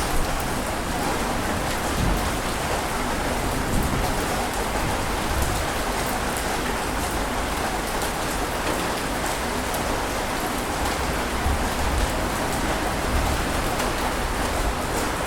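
Continuous dense rush of water, steady in level with a fine crackle on top and no clear rise and fall of single breaking waves.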